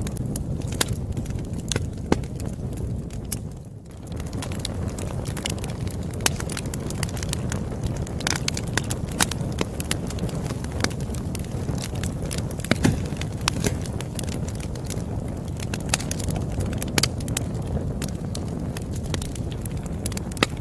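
Campfire crackling: a steady low rumble of burning wood with frequent sharp, irregular pops and snaps. The sound dips briefly in level a little before four seconds in.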